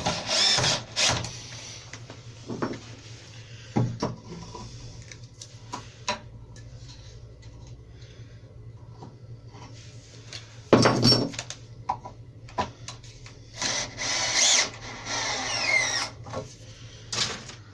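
Power drill-driver running in short bursts to drive screws through a wooden door frame into the wall, its motor speed rising and falling, with scattered knocks and clicks of wood and packers being handled between bursts.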